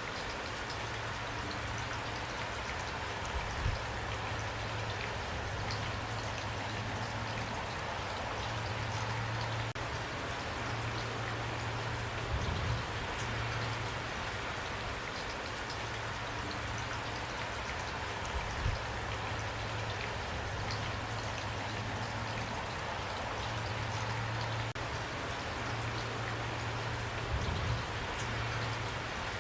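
Steady rain falling, an even pattering of raindrops, with a low hum underneath and a few soft low thumps spaced several seconds apart.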